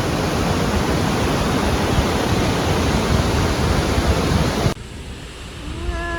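Waterfall at South Creek Falls rushing loudly and steadily, then cut off abruptly near the end to a much quieter background. A slowly falling, voice-like call begins just before the end.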